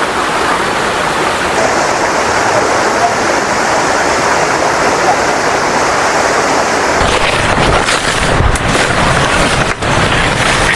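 A waterfall rushing steadily. About seven seconds in, wind buffeting the microphone adds low, uneven rumbles.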